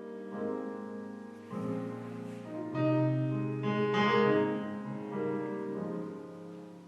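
Piano music with sustained chords, swelling in the middle and fading toward the end.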